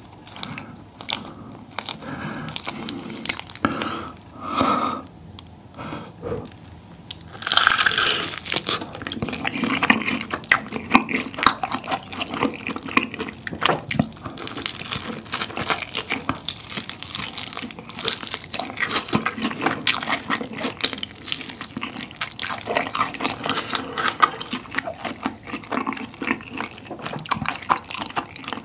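Close-miked mukbang eating sounds: wet, sticky biting and chewing of sauce-coated tteokbokki rice cakes, full of small sharp crackles. The eating gets busier and louder from about eight seconds in.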